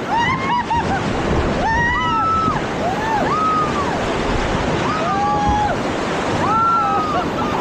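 River rapids rushing and splashing around a raft, with several people screaming and yelling in short high rising-and-falling cries again and again.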